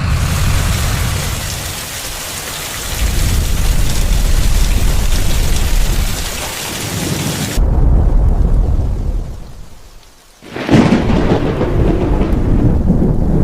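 Thunderstorm sound effect: steady heavy rain with low rolling thunder. About seven and a half seconds in, the rain hiss cuts off suddenly, the rumble fades away, and a fresh loud thunder rumble breaks in near the end.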